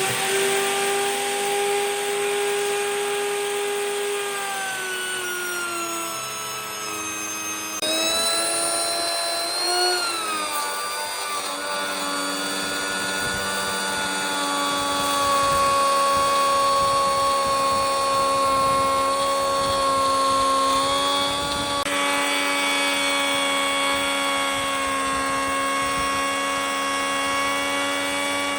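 Electric power tool motor running with a steady whine, its pitch sagging twice in the first ten seconds, then holding at a lower pitch.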